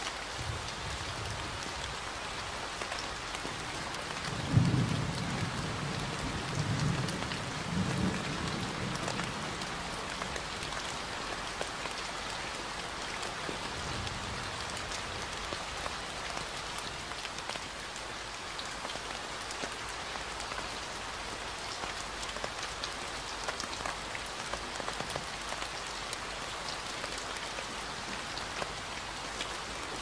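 Steady rain falling, with low rumbles of thunder about four to nine seconds in; the first, about four and a half seconds in, is the loudest.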